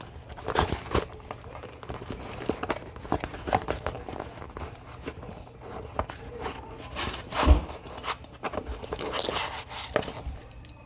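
Handling noise: rustling, crinkling and small knocks as LED headlight bulbs and their packaging are handled close to the phone, with one louder thump about seven and a half seconds in.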